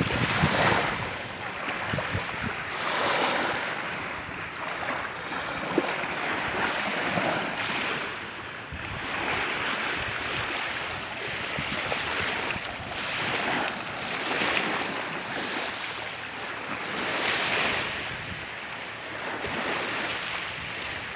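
Sea waves washing onto a beach, the surf swelling and falling away every two to three seconds.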